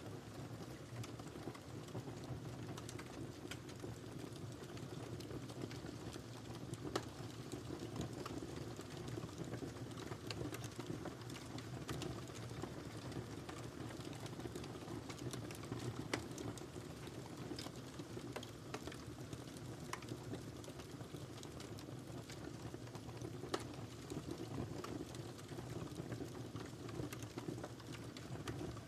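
Wood fire crackling in a fireplace: a steady low rumble of burning with scattered small pops, and a few louder snaps about a quarter of the way in, midway and about four-fifths of the way through.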